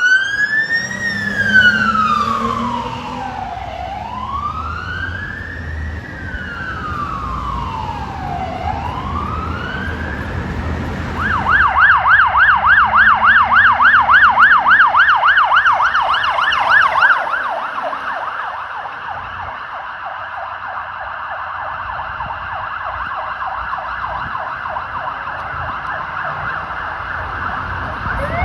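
Police car electronic siren on a slow wail, rising and falling about every two and a half seconds, then switching to a fast yelp about eleven seconds in. The yelp is loud for several seconds and then fades as the car moves away, over low road traffic rumble.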